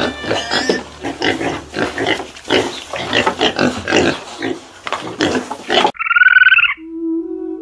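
Pigs grunting in quick, noisy succession. About six seconds in, the grunting stops and a short, loud, high-pitched call follows, then music begins.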